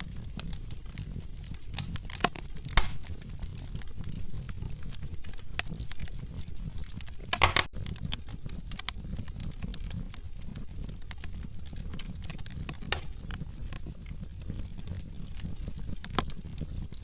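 Logs burning in a fireplace: a steady low rumble under frequent small crackles, with a few louder pops, the sharpest about three seconds in and a short cluster about seven and a half seconds in.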